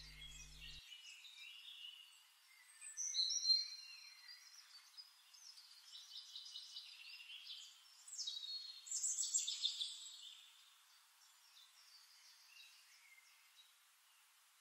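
Small birds chirping and trilling faintly. The calls cluster about three seconds in and again, louder, around eight to ten seconds, then die away near the end.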